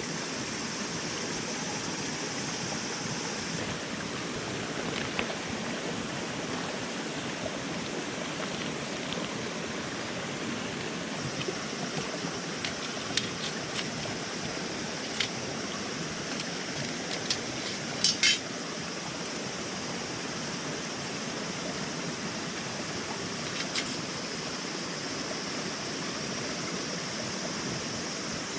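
Metal camp cookware clinking a few times, the loudest a double clink about 18 seconds in, over a steady rushing background like a stream.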